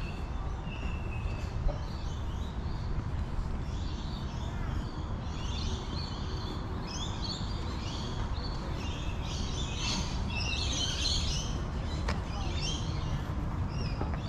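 Birds chirping and calling over a steady low background hum, the calls growing busier and louder about halfway through.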